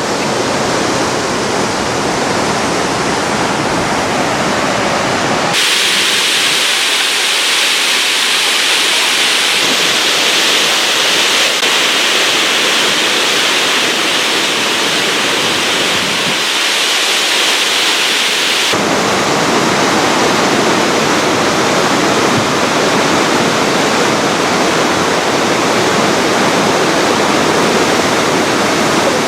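Rushing water of the Peguche waterfall and its river, a loud, steady roar. About five seconds in it changes abruptly to a brighter, hissier sound with less low rumble, then returns to the fuller roar a little past the middle.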